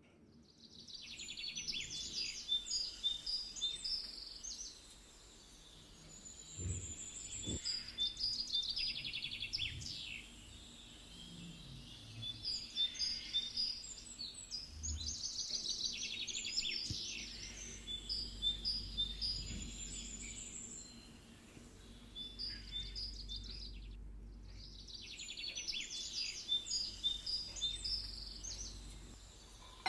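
Birdsong: groups of high chirps and trills that recur every several seconds, over a faint low rumble.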